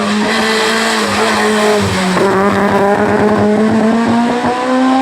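Race car engine at full throttle on a hill climb run. Its pitch sags slightly about two seconds in, then rises steadily as the car pulls up through the revs.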